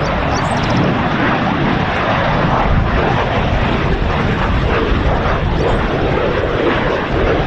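Jet aircraft engine noise, a steady loud rushing sound.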